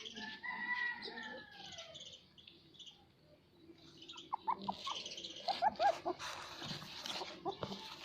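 A puppy whining: one long falling whine about half a second in, then a run of short high squeaks from about four seconds in.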